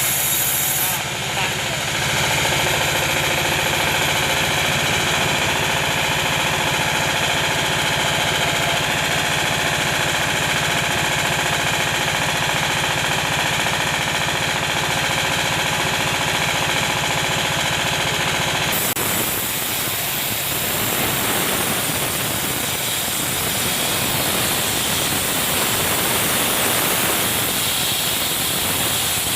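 Sawmill machinery running steadily, an engine-driven saw with a constant machine hum. About two-thirds of the way in, the sound changes abruptly to a rougher, even noise.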